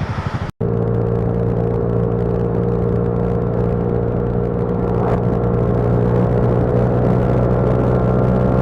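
A motorcycle engine running at a steady cruise, its hum creeping slightly louder, after a brief break about half a second in.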